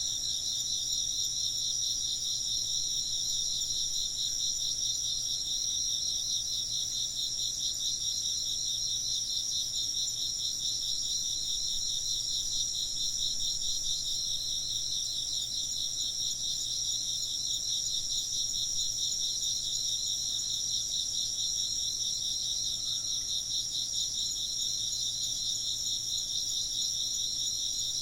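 Chorus of insects chirping steadily, with rapid trills at a couple of different high pitches running on without a break.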